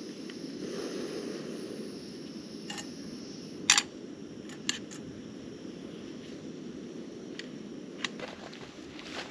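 Steady rain pattering, with a few sharp clicks and knocks on top; the loudest comes about three and a half seconds in.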